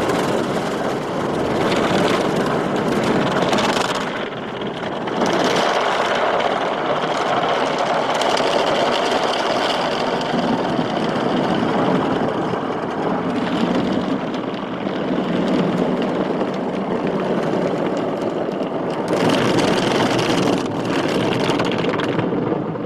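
Automatic car wash machinery running: a loud, dense wash noise that swells and eases every few seconds, then drops away sharply at the very end.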